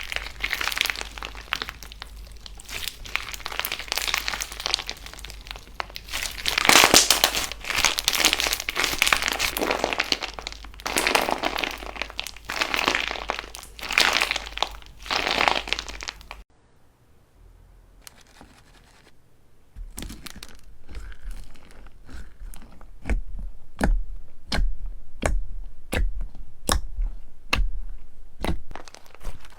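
Slime being worked by hand, with dense crinkling and crunching. After a sudden cut and a short lull, a run of sharp pops and clicks follows at about two a second, each with a low thud under it.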